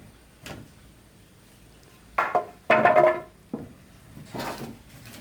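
Knocks and clatter from handling hard objects: a couple of sharp knocks about two seconds in, then a louder clatter with a brief ringing tone, and a softer scrape near the end.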